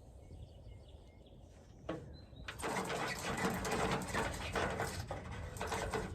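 A trapped bird scratching and flapping inside a metal downspout, a rapid, rough, rattling scrabble that starts suddenly about two and a half seconds in and keeps on.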